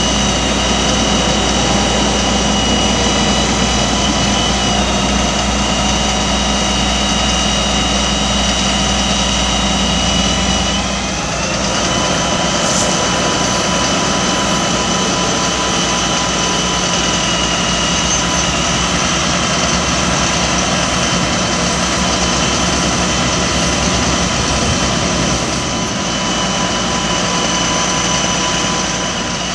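Caterpillar 3126 diesel engine of a bucket truck running steadily, with a high whine over it; about eleven seconds in the tones step up in pitch as the engine speed rises.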